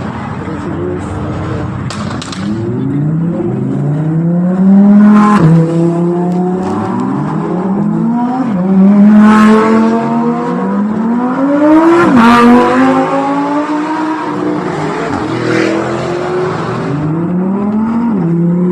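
Supercar engines revving hard as the cars accelerate past one after another, each engine note climbing in pitch, then dropping sharply at a gear change or lift-off. The loudest passes come about five, nine and twelve seconds in.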